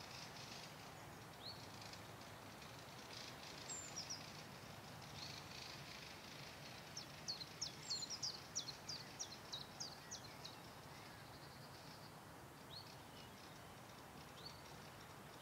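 Small birds singing faintly: scattered single high chirps, with a quick run of about a dozen chirps in the middle, over a faint steady outdoor background noise.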